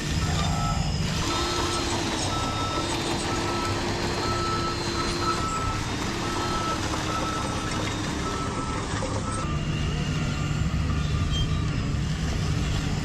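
Reverse warning beeper of an RC construction truck's sound module, beeping at a steady pace of about three beeps every two seconds over a simulated diesel engine drone, with the truck reversing. The beeping stops about two-thirds of the way through while the engine sound carries on.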